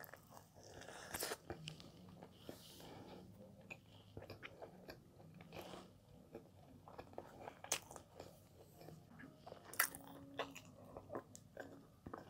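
Close-miked chewing of soft cheese ciabatta bread: a bite at the start, then faint mouth sounds with scattered small clicks.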